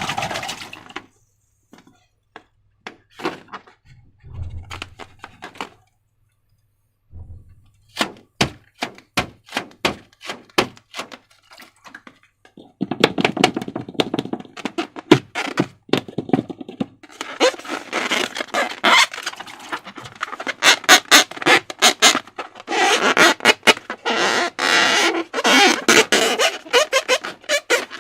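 Slime being worked by hand: scattered taps and sticky pops, a run of sharp clicks, then dense sticky crackling and squelching for the second half.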